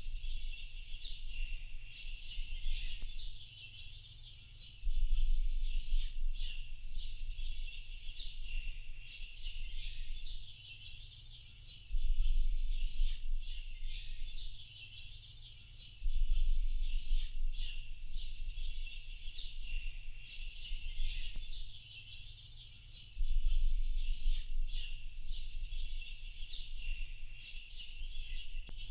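A dense chorus of small birds chirping and twittering without a break. A low rumble comes in suddenly four times and fades away over a few seconds each time.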